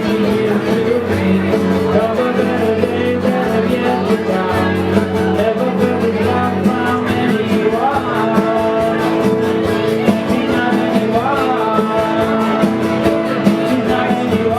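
Rock band playing live with electric guitars and drums, a singer's voice bending over the top.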